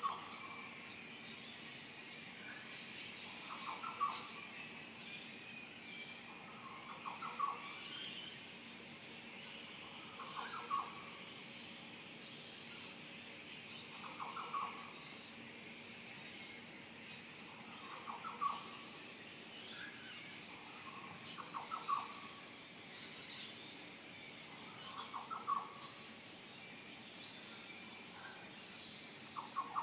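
Dawn chorus of birds: a low, pulsed hooting call repeats about every three and a half seconds over a continuous mix of higher chirps and whistles.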